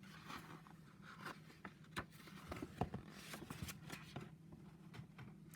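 Faint paper rustling and a few light clicks and taps of a picture book being handled, its pages turned, over a steady low hum.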